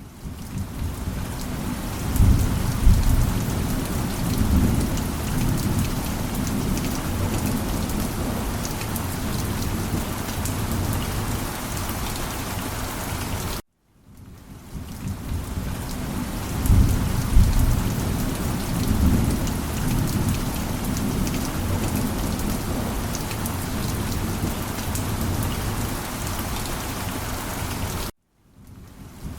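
Steady heavy rain with low thunder rumbling twice, about two seconds in and again past the middle. The sound cuts out suddenly about halfway and again near the end, fading back in each time.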